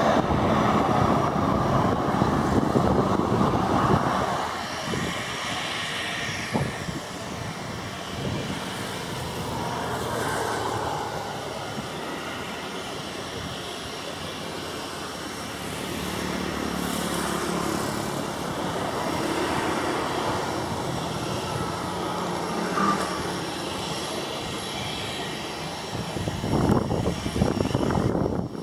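Turboprop airplane's engine and propeller running, loud for the first four seconds, then dropping to a quieter steady drone that grows louder again near the end.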